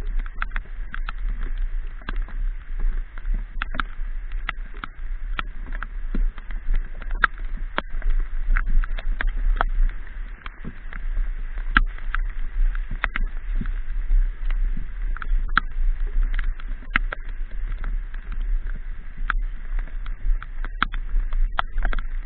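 Low rumble of wind on the microphone of a moving motorbike, with irregular sharp taps of raindrops striking the camera.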